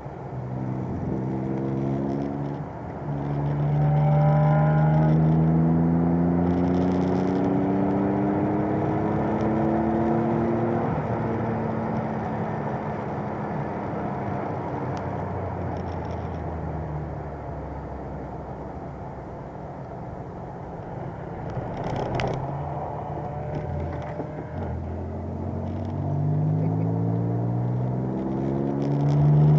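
Alpine A310's V6 engine running on a circuit, revving up through long pulls: a short rise at the start, a long climb for about seven seconds, lower steadier running through the middle, then revs climbing again near the end. A single sharp crack comes about 22 seconds in.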